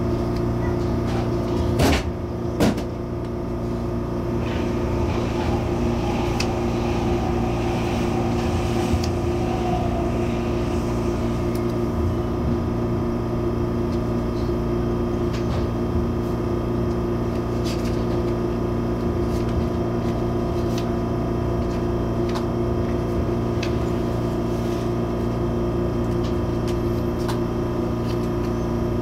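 Steady electrical and ventilation hum inside an MTR Airport Express CAF train car, made up of several constant low tones. Two sharp knocks come about two seconds in, and a faint falling whine follows a few seconds later.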